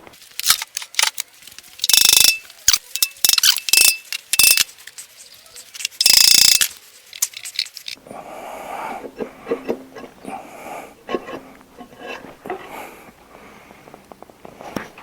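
Metal clanking and short harsh scrapes of tools and parts being worked on a flathead Ford V8's cylinder head, some clanks ringing briefly. About halfway through, the clanks give way to quieter shuffling and handling noises.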